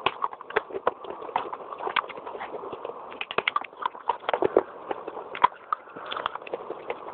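Baked clay being bitten and chewed: rapid, irregular crunches and cracks, several a second.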